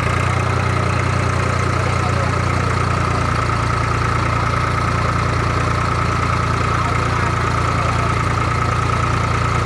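An engine running steadily at a constant speed, with a loud low drone and a thin steady whine above it.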